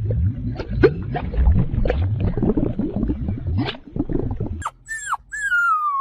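A pet's noises. First comes a stretch of low grumbling with scuffling clicks and knocks. Then, near the end, come two falling, whine-like cries, the second long and sliding steadily down in pitch.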